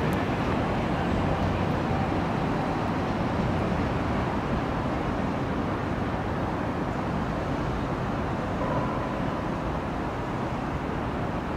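Nankai Railway electric train passing through a station at speed without stopping: a steady rumble of wheels on rails, easing slightly near the end.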